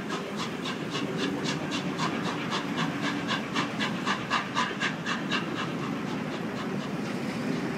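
Peppercorn A1 three-cylinder steam locomotive Tornado working a train, its exhaust giving a fast, even chuffing of about four to five beats a second. About five seconds in, the beats fade into the steady rumble of the train rolling past.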